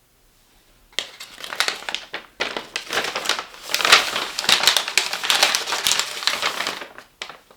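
Crinkling and rustling of packaging being handled, a dense run of crackles starting about a second in, with a brief pause, and stopping shortly before the end with a couple of last clicks.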